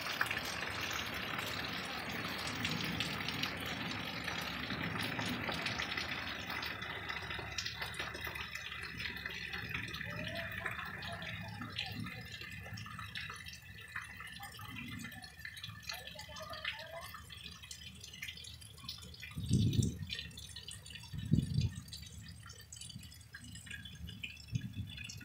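Rain falling, with many small drops pattering and dripping. The patter is densest in the first several seconds and thins out after that. Two low thumps come about two seconds apart, late on.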